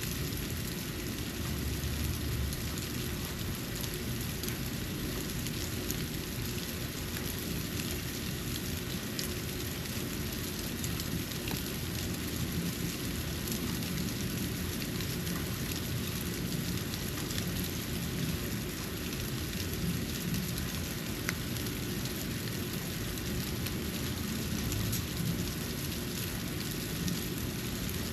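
Falling snow pattering steadily as many fine, soft ticks, over a low rumble.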